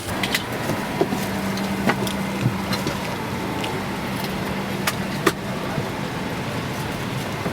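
Steady vehicle running noise with a low hum and a few scattered sharp clicks.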